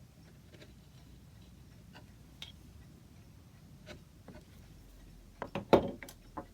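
Wood chisel chopping out a socket in carved wood: a few faint ticks, then a quick run of five or six sharp knocks near the end.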